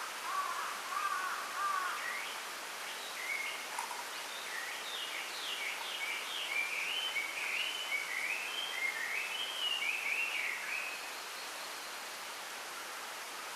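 Small songbirds singing over a steady hiss of bamboo leaves rustling in the wind. A burst of quick chirps comes in the first two seconds, then a run of rapid, falling phrases from about three to eleven seconds in.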